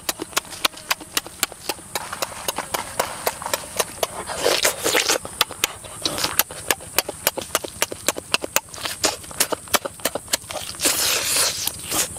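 Close-up eating sounds of chewing grilled chicken: a steady run of wet mouth clicks and lip smacks, about four a second, with a longer breathy slurp about four and a half seconds in and again near the end.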